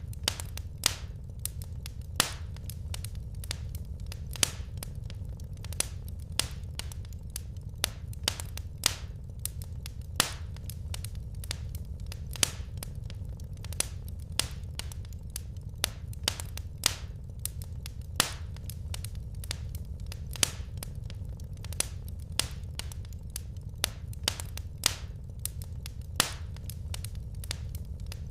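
Wood fire crackling in a fireplace: frequent sharp, irregular pops and snaps over a steady low rumble of the burning logs.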